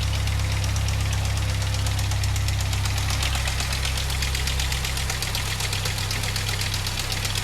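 Nissan 240SX engine running at idle on its first start after restoration, with a fast, even ticking over its low hum; the hum eases off about three seconds in. Something seems a little off to the owner, and the drive belt is later found broken.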